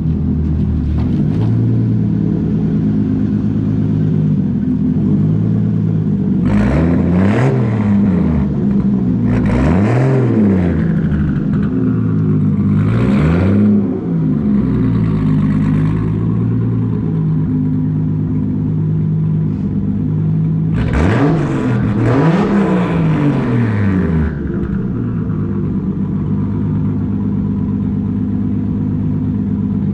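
Turbocharged Toyota Supra's engine cruising with a steady drone. Other vehicles pass about four times, each swelling and then fading away.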